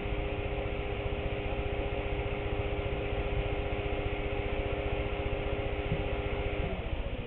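Battery charger's cooling fan running with a steady hum, then switching off near the end and winding down in a short falling glide, a sign that the batteries have finished charging.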